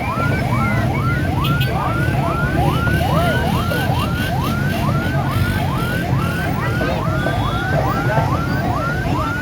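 Vehicle siren whooping in a fast repeating rising sweep, about two and a half times a second, over a steady low rumble of engines and crowd.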